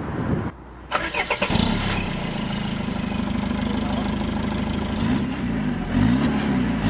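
Citroën Berlingo 2.0 HDi diesel engine cranked and catching about a second and a half in, then running steadily. From about five seconds in its pitch swings up and down again and again.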